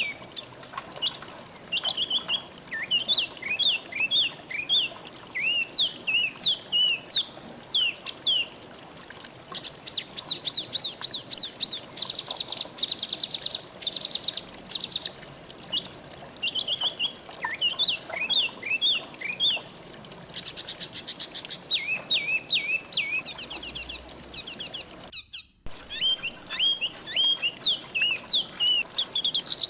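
Songbirds singing: phrases of quick rising and falling chirps, broken by fast buzzy trills, over a steady high hiss. The sound cuts out for a moment near the end.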